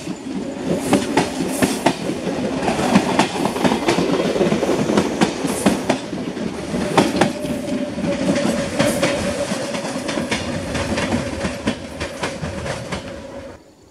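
CPTM Série 1700 Mafersa electric multiple unit passing at close range, its wheels clicking rapidly over rail joints. A steady whine runs under the rolling noise in the second half, and the sound cuts off abruptly near the end.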